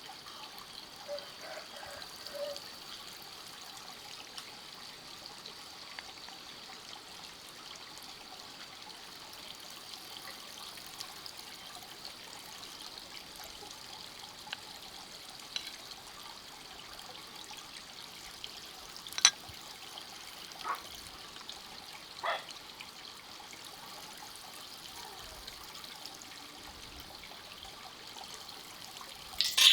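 Faint, steady trickle of running water, with three sharp clicks about two-thirds of the way through.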